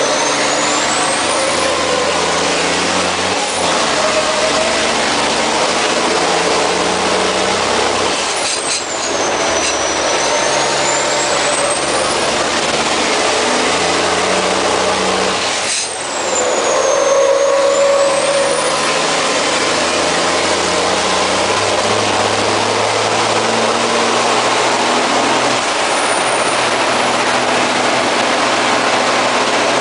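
MAN race truck's diesel engine heard from inside the cab at racing speed, loud and under load, its pitch stepping up and down with gear changes and throttle. Twice, about a third of the way in and again about halfway, the engine sound breaks off sharply for a moment, with a high whistle sweeping around it.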